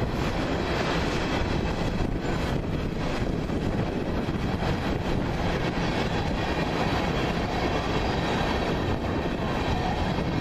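Empty freight cars of a train rolling past: a steady rumble of wheels on rail with scattered faint clicks from the rail joints.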